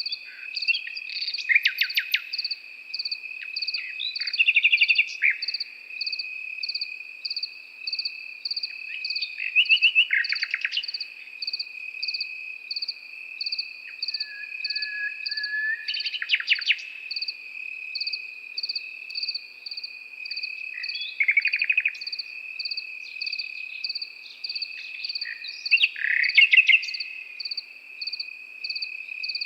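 A nightingale singing short phrases of rapid repeated notes, about six times, a few seconds apart. Behind it, crickets chirp steadily about twice a second over a continuous high trill.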